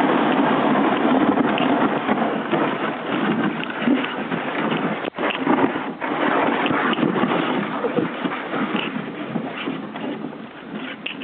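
Steady rushing noise of wind buffeting the microphone during a ride, with a short dropout about five seconds in.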